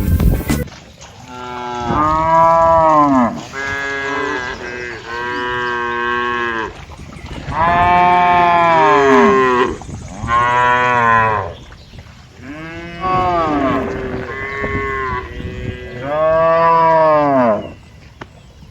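Cattle mooing: a series of about eight long moos with short pauses between them, each rising and then falling in pitch.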